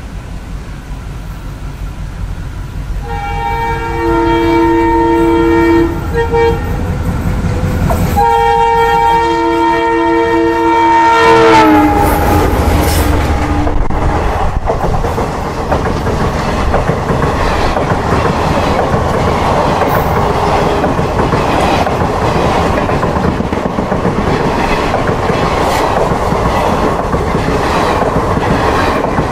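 Indian Railways diesel locomotive sounding its multi-tone horn in two long blasts, the second falling in pitch as the engine passes. A rake of passenger coaches then rushes by with a rumble and a steady clickety-clack of wheels over the rail joints.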